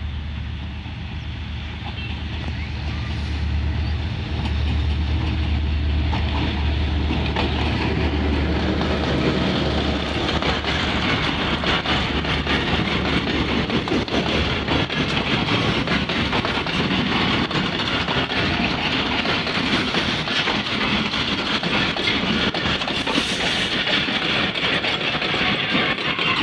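GMCU-15 diesel locomotive approaching and passing with a deep engine drone. From about five seconds in, a long train of goods wagons and coaches rolls past with steady wheel-on-rail clatter.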